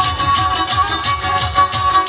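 Instrumental Black Sea horon dance music: a melody line with a held tone, played over a fast, steady percussive beat.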